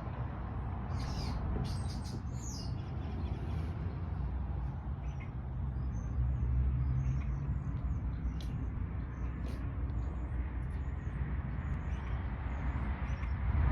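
Small birds chirping, with short high chirps bunched in the first few seconds and scattered through the rest, over a steady low rumble.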